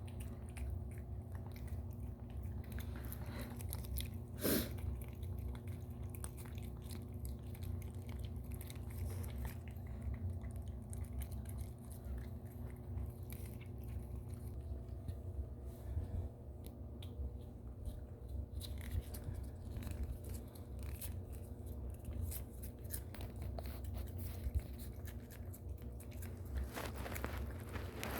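Russian Blue cat licking a Churu paste treat from its tube: a steady run of small wet licking and smacking clicks, with one louder click about four seconds in, over a low steady hum.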